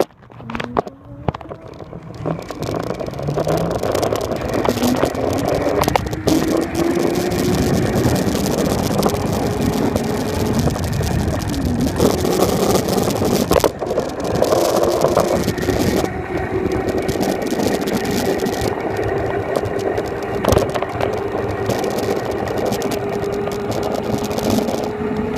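Electric motor of a Razor dirt bike whining under way. The whine rises as the bike picks up speed over the first few seconds, then holds steady over a loud rushing noise, with a few sharp knocks.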